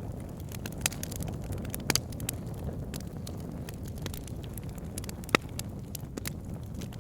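Wood logs burning in a fireplace: a steady low rumble of flame with scattered sharp crackles and pops. The loudest pop comes about five seconds in.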